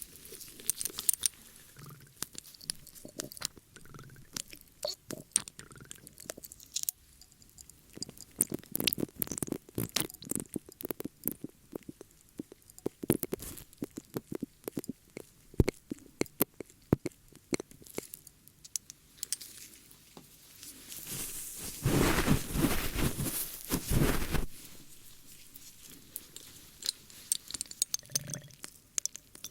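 Close-miked ASMR ear cleaning: irregular crackly scratching and clicking, with a louder, denser rustling stretch of a few seconds about three quarters of the way through.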